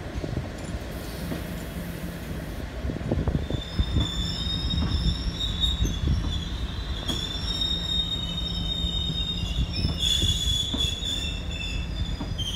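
Loaded aggregate box wagons of a freight train rolling past over a low rumble and scattered knocks from the wheels. From about three and a half seconds in, the wagon wheels squeal in high, steady, overlapping tones, loudest near the end.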